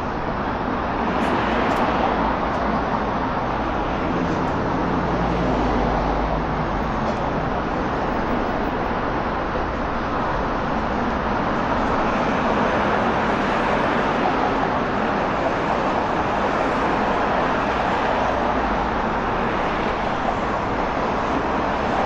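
Steady road traffic on a busy city street: cars passing continuously, with a heavier engine's low rumble about four to six seconds in.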